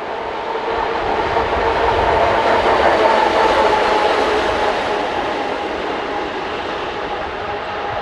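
A pair of Class 130 electric locomotives passing with a train: a steady electrical hum with wheel-on-rail noise, growing to its loudest about three seconds in and then fading slowly.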